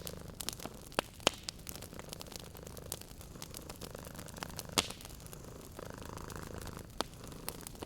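Wood fire crackling with scattered sharp pops, the loudest about a second in and just before five seconds, over a cat's steady low purring.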